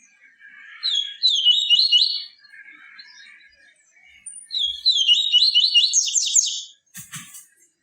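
Papa-capim seedeater singing: two bright phrases of rapid, repeated high notes with softer twittering between them. A brief sharp click sounds near the end.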